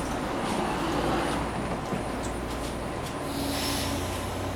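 BART train standing at the platform with a steady low hum. About three seconds in its sliding doors close, with a brief hiss.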